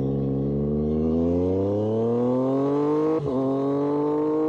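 Triumph Street Triple 765RS inline three-cylinder engine through an SC-Project aftermarket exhaust, accelerating hard. The engine note climbs steadily in pitch, dips briefly at an upshift about three seconds in, then climbs again in the next gear.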